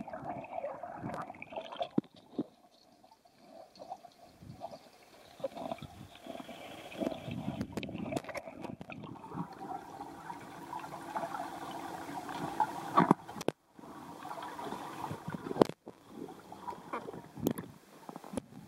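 Water sloshing and splashing unevenly as a golden retriever puppy paddles, with scattered sharper splashes.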